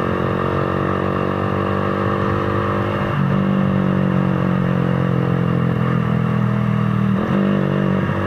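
Motorcycle engine running at a steady pace while riding, with road and wind noise. The engine note breaks briefly about three seconds in and again about seven seconds in.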